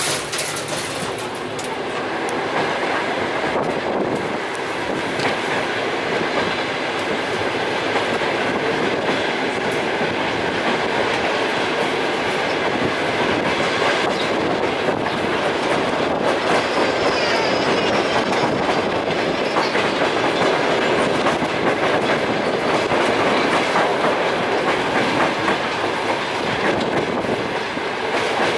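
A passenger train running on the rails, heard from on board: steady wheel and rail noise that grows a little louder over the first few seconds. There is a sharp knock right at the start.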